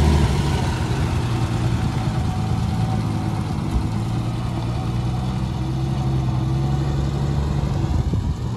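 1967 Willys Rural 4x4's six-cylinder engine running at a steady, even pitch.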